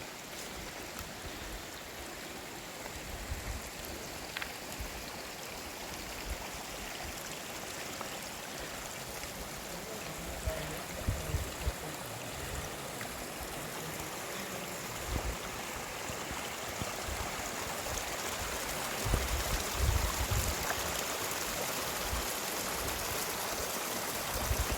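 Steady rushing of a river flowing, slowly getting louder, with a few low bumps now and then.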